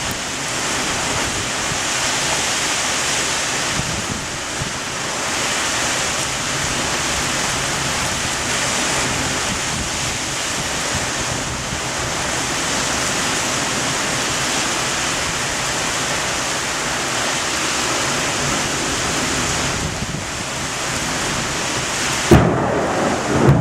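Heavy thunderstorm rain and wind making a loud, steady hiss. Near the end there is a sudden sharp crack, after which the sound turns lower and the hiss thins.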